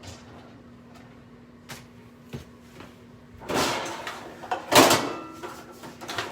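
A kitchen drawer being opened with metal utensils rattling inside, a few light clicks first, then a loud rattling and a sharp knock just before the five-second mark as the drawer is shut. A faint steady hum runs underneath.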